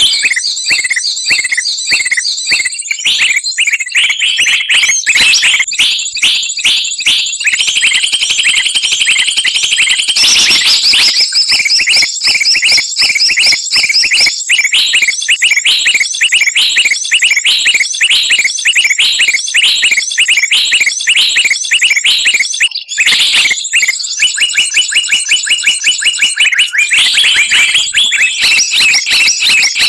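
Bird-lure recording of small songbirds chattering noisily together: dense, fast runs of sharp high chirps and trills, several a second, with a thin high whistle-like tone held underneath, continuing without pause apart from a brief dip near the three-quarter mark.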